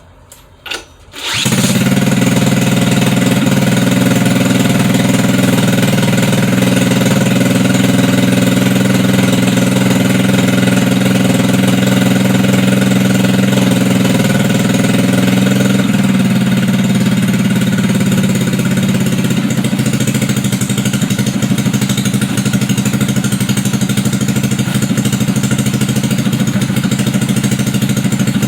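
GY6 150cc air-cooled four-stroke single-cylinder scooter engine on a test bench, running on a PWK 28 mm slide carburetor. It starts about a second in and then runs steadily, its note changing slightly about halfway through.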